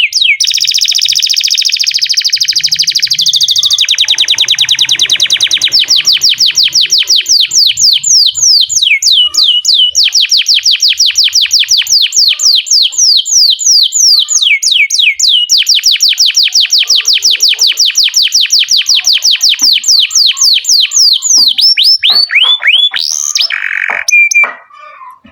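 Canary singing a long song of rapid trills: runs of quick, falling whistled notes repeated several times a second, switching to a new run every few seconds. The song ends in a last louder phrase near the end.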